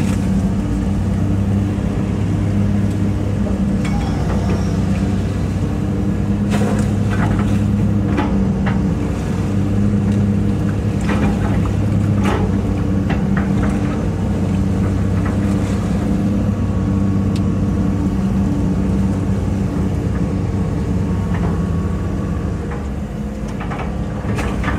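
Hitachi EX200-5 excavator's diesel engine running steadily under working load, with a few short knocks and clanks from the machine as it digs.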